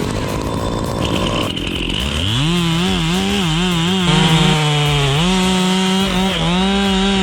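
Two-stroke chainsaw running, its engine pitch climbing about two seconds in and then swinging up and down again and again as the throttle is worked.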